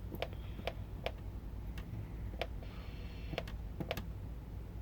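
Irregular plastic clicks of buttons being pressed on a weather radio, about a dozen spread unevenly, with a faint brief tone about three seconds in.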